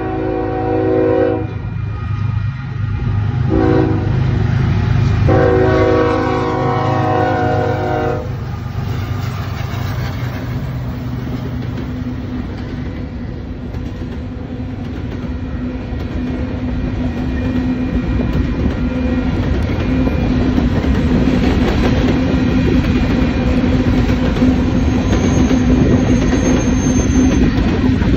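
Diesel freight locomotive horn sounding at a grade crossing: a long blast, a short one about 3.5 s in, then a long one ending about 8 s in, over the low rumble of the engines. Then freight cars roll past with a steady clatter of wheels on rail that grows louder near the end.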